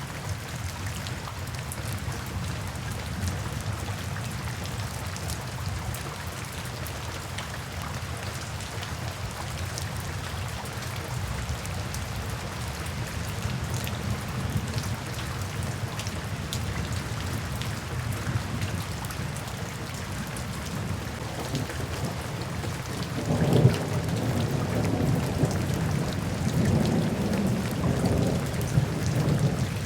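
Steady rain falling, an even hiss of drops. About three quarters of the way through, a low rolling rumble of thunder comes in and keeps rumbling to the end.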